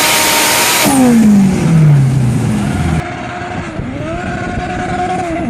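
Turbocharged Honda engine at high revs, then falling steadily in pitch as the throttle comes off. About three seconds in the sound changes abruptly and the engine pulls again, its pitch dipping and climbing twice as it shifts through the gears.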